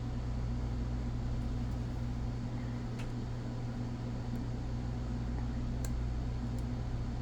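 Steady low hum, with a few faint light clicks of small parts being handled about three seconds in and twice near the end.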